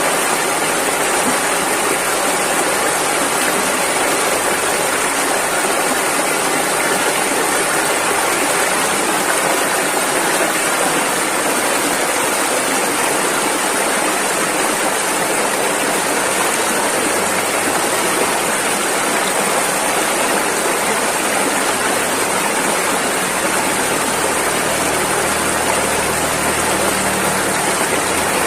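Rushing river water, a steady dense rush of flowing water.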